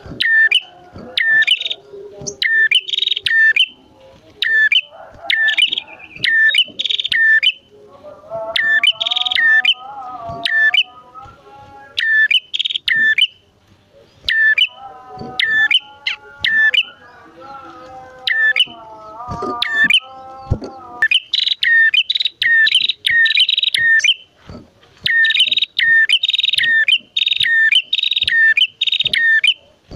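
Ashy tailorbirds (red-headed prenjak), male and female, calling loudly in fast runs of sharp, high, repeated notes broken by short pauses. Through the middle a lower, wavering call is heard beneath them.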